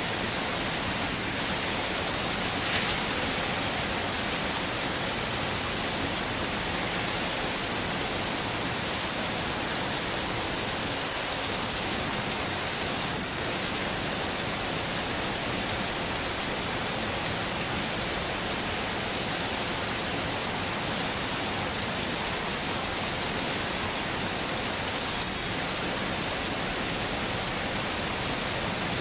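Heavy rain falling in a steady, dense hiss, with a brief dip in the high hiss about every twelve seconds.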